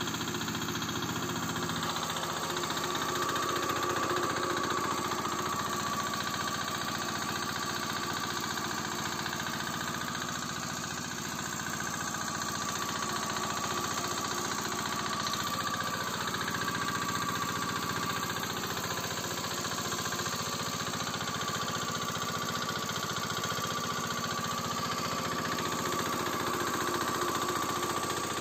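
Usha 4 hp diesel engine driving a 2.5 kVA generator, running steadily at constant speed while powering a 1 hp submersible pump.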